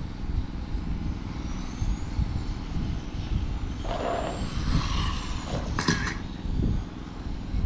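Electric 1/10-scale RC touring cars with 25.5-turn brushless motors running laps: faint high motor whines rising and falling as cars pass, over a steady low rumble. A brief harsh burst about six seconds in.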